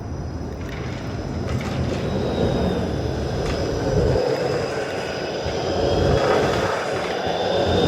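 A streetcar passing close by, its steel wheels rumbling and its motor and wheels giving a thin high whine that slowly glides upward, the whole sound swelling as it approaches.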